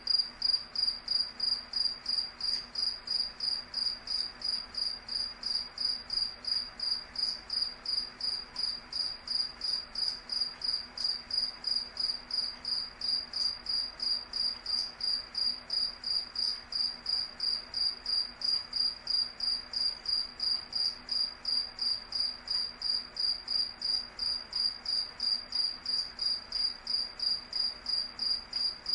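A single cricket chirping: a steady run of evenly spaced, high-pitched chirps, about two or three a second, all on one tone.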